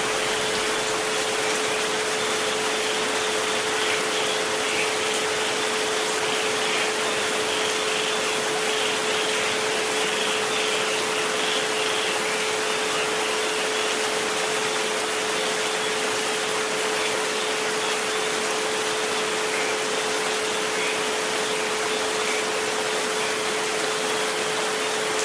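Steady rain hiss with a continuous pure tone at about 432 Hz and a fainter steady tone near 528 Hz held underneath, unchanging throughout.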